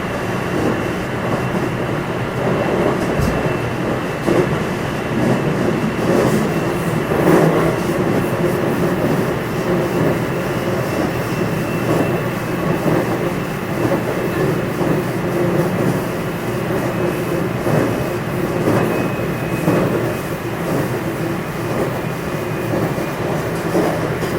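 Running noise inside the motor car of a JR West 227 series electric train (Hitachi IGBT VVVF inverter) at speed: a steady rumble of wheels on rail, with a faint thin high whine from the traction motor drive.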